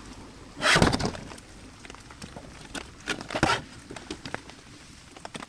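Handling noise as a small plastic desk fan is turned around in the hands: two short rustling bursts, about a second in and about three seconds in, with light clicks and taps between them.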